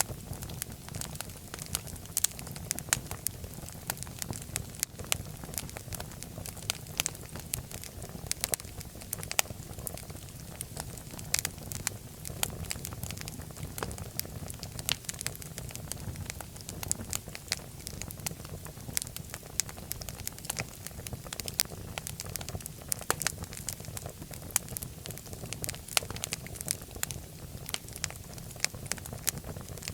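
Fireplace fire crackling: a steady low rumble of burning under frequent irregular sharp pops and snaps.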